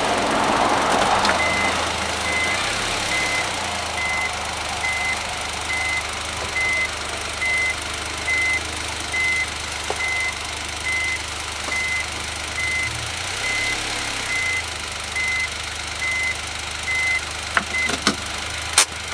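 A reversing warning beeper sounding a short high electronic beep about once every 0.8 seconds over a vehicle engine idling. It stops shortly before the end, where a few sharp clicks and one loud knock follow.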